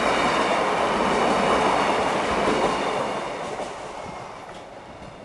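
Class 150 Sprinter diesel multiple unit passing close by over the level crossing, a loud rush of wheel and engine noise that fades from about three seconds in as the train draws away.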